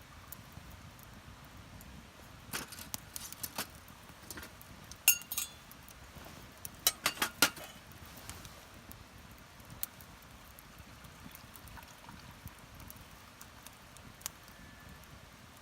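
Light metal clinks and clatter of camp cookware being handled. The loudest is a single ringing clink about five seconds in, followed by a quick run of clinks around seven seconds.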